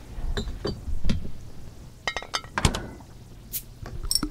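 Glass beer bottles and glasses clinking and knocking as they are handled and set down on a table, with a series of separate clinks and thuds and a brief glassy ring about two seconds in.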